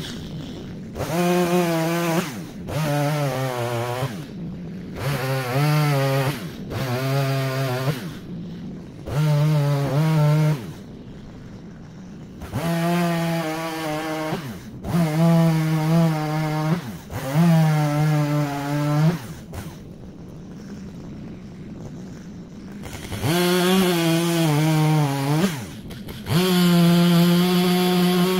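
Chainsaw cutting oak logs into firewood lengths: the engine revs up and bogs into each cut in short bursts of one to two seconds, dropping back to idle between them, about ten cuts in all with a longer idle pause about twenty seconds in.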